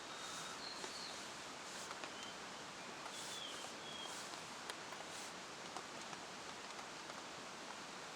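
Steady rain falling with scattered individual drops, and a few faint, short, high bird chirps in the first half.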